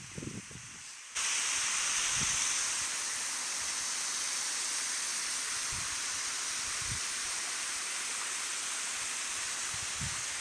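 Waterfall rushing: a steady, bright hiss of falling water that cuts in suddenly about a second in, after a moment of softer low rumbling. A few faint low thumps sound underneath.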